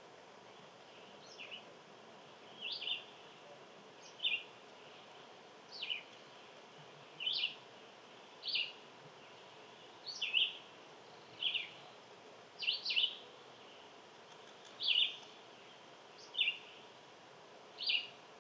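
A songbird repeating a short call about every one and a half seconds, each a quick note sliding down in pitch, some of them doubled, over a faint steady background hiss.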